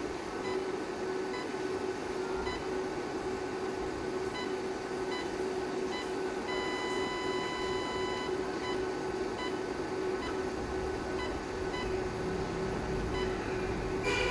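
Electronic beeping over a steady hum: short beeps about twice a second, with one longer held beep midway. A knock near the end.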